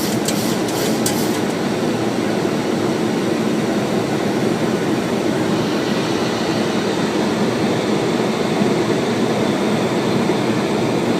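Steady rushing flight-deck noise of a Boeing 737-800 in flight on approach, an even mix of airflow and air-conditioning. A few short clicks come in the first second or so.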